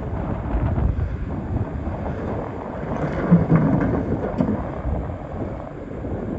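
Excavator digging in rock: a loud, low rumble of the machine working, with a brief louder knock about three seconds in.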